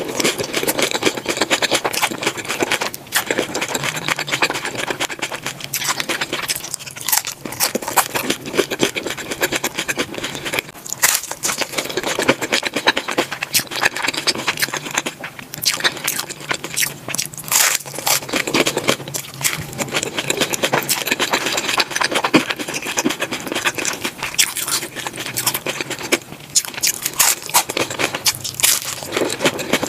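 Close-miked biting and chewing of crunchy hard-shell corn tacos coated in nacho cheese sauce: a dense run of crisp crunches and crackles.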